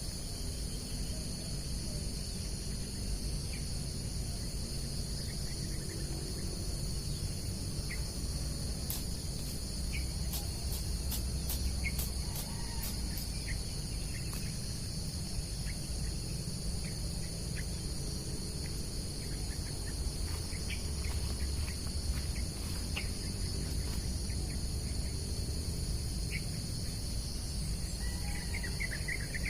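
A steady chorus of crickets and other insects, with a low rumble underneath and occasional short chirps; near the end a fast trilling chirp starts up.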